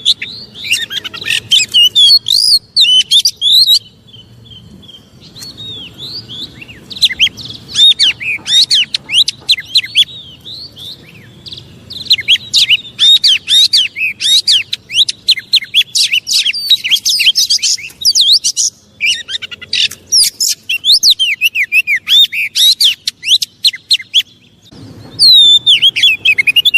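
Oriental magpie-robin singing in long, fast phrases of rapid whistled sweeps and chattering notes, broken by short pauses.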